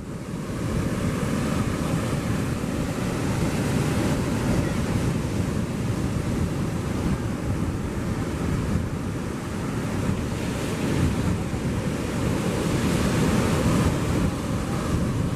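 Surf washing onto the beach, with wind buffeting the microphone; a steady rushing noise that swells somewhat near the end.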